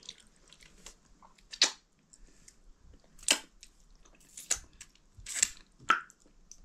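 Close-up eating sounds: a person chewing chicken and maize dhido, with about five short, sharp mouth sounds roughly a second apart.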